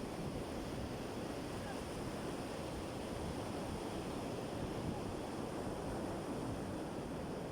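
Sea surf washing on the shore in a steady, continuous low rush of waves.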